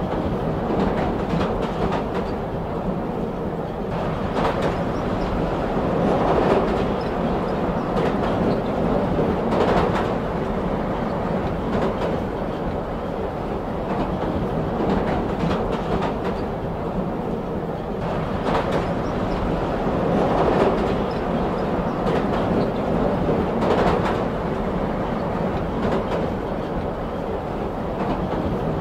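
Train running along the track: a steady rumble of wheels on rails with the clickety-clack of rail joints, swelling louder now and then.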